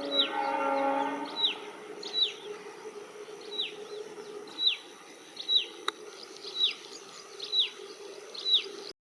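A train horn sounds a steady pitched blast that stops about a second in. A bird then calls over and over with short, high chirps, each falling in pitch, about one a second. The sound cuts off abruptly just before the end.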